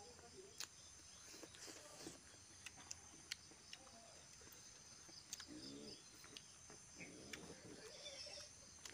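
Faint eating sounds: chewing and lip-smacking on pork eaten by hand, heard as scattered sharp clicks and a few short wet patches, over a steady faint insect chirping.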